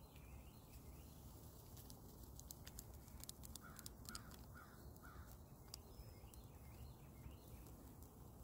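Faint outdoor quiet with a bird calling four times, about half a second apart, near the middle.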